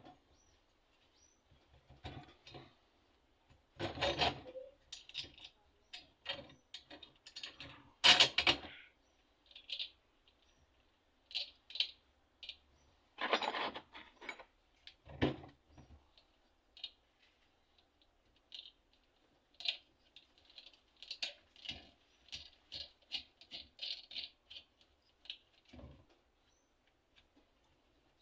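Small metal parts and tools being handled: irregular clinks, taps and knocks, with heavier knocks about 4, 8 and 13 seconds in and quicker light clicking in the last third.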